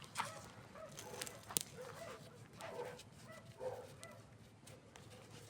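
Campfire crackling, with sharp pops every so often, and a dog's short whines and barks a few times in the background.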